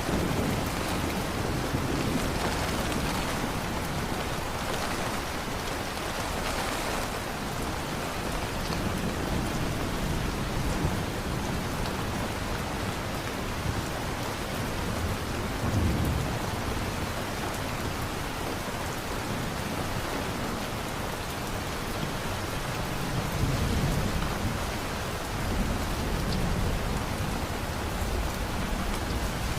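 Thunderstorm: steady heavy rain with low rolls of thunder rumbling in several times, the strongest about halfway through and again about three quarters of the way in.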